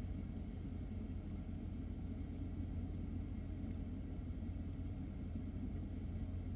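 Steady low rumble and hum inside a car cabin, even throughout with no distinct events.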